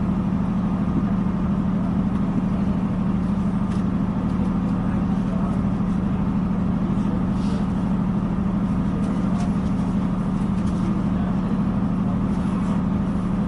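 Steady low drone of a diesel passenger train, with a few faint clicks and rattles over it.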